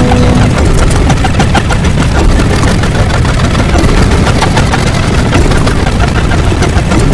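Very loud, dense, distorted rumbling noise with constant fine crackling, steady throughout, resembling a heavy engine running.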